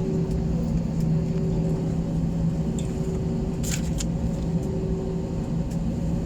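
Steady hum and rumble of an airliner cabin on the ground before takeoff, from the engines and the air-conditioning, with a few faint clicks.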